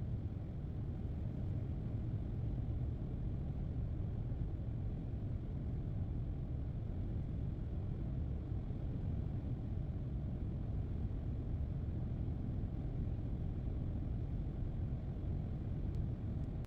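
Steady low rumble of a car driving, its road and engine noise.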